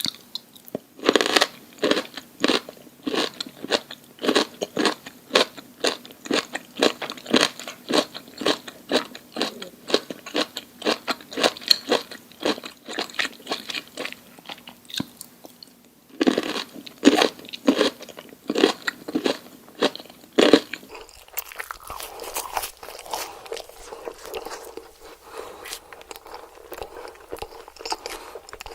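Close-miked chewing of crunchy food, loud crisp crunches about two to three a second with a short pause partway through. About 21 seconds in the sound changes to a quieter, thinner crackle of chewing.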